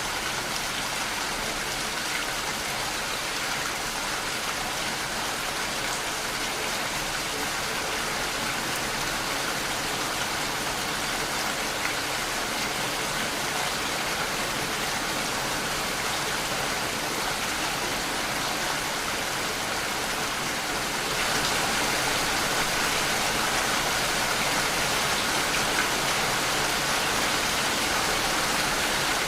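Steady rain falling, an even hiss that gets a little louder about 21 seconds in.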